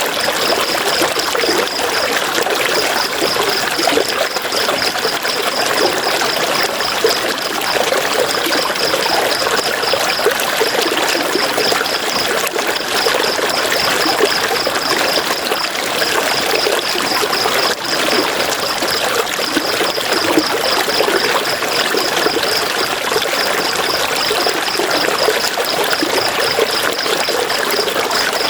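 River water flowing, a steady rush with no breaks. Over it, a high, rapidly pulsing trill repeats in runs of a few seconds with short pauses between.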